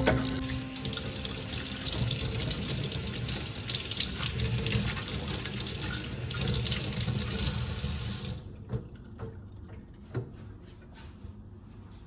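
Water running from a tap into a sink in a steady rush that shuts off about eight seconds in, followed by a few light clicks and knocks.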